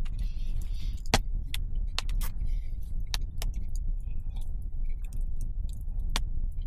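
Wood fire crackling in a fireplace: irregular sharp pops and snaps, the loudest about a second in, over a steady low rumble.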